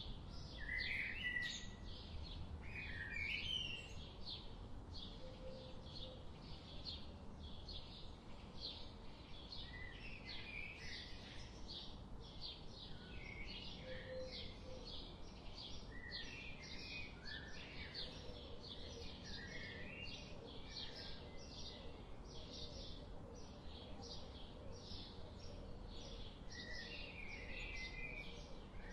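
Songbirds calling: one bird repeats a short high note about twice a second without a break, while another bird's lower twittering phrases come in every few seconds, over a faint steady background hiss.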